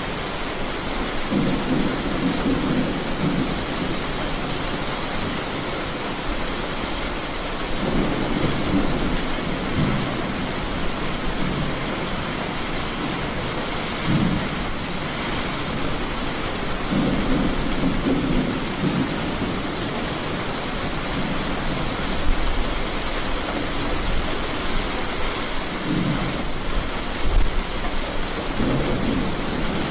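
Steady rain with several low rumbles of thunder through a thunderstorm.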